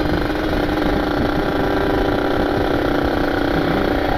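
Kawasaki Ninja RR's ported single-cylinder two-stroke engine running at steady high revs while riding, its pitch held constant. Wind rumble on the microphone sits underneath.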